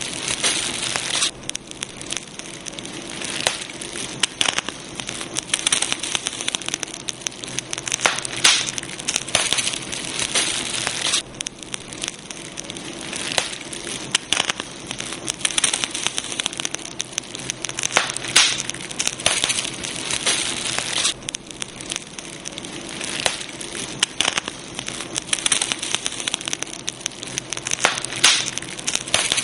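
Campfire burning, with a steady hiss and irregular crackles and sharp pops from the burning wood.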